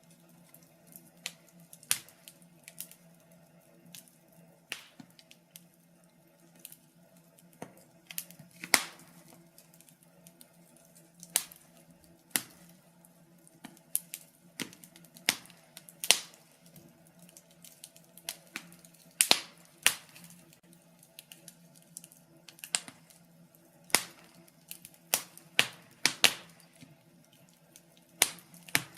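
Wood fire burning in a fireplace: logs crackling with irregular sharp pops, a few loud ones among many small ticks, over a faint steady low hum.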